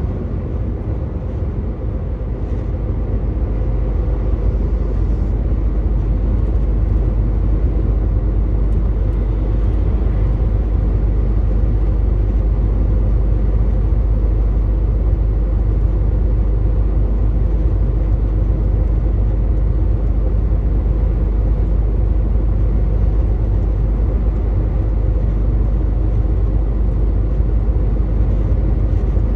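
Truck engine running steadily under way, with tyre and road noise, a low drone that grows a little louder over the first few seconds and then holds even.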